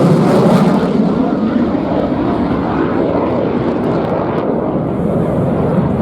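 Eurofighter Typhoon's twin EJ200 jet engines running loud in afterburner during a display pass. The sharp high hiss falls away about a second in, leaving a deep, ragged rumble.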